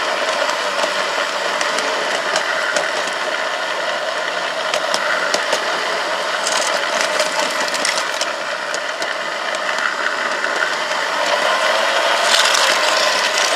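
Garden-railway model locomotive running along its track: a steady mechanical whirr with many small clicks and rattles, a little louder near the end.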